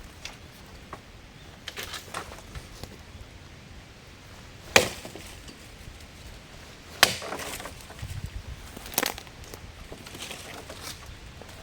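Wood being chopped: a few light knocks, then three sharp strikes about two seconds apart.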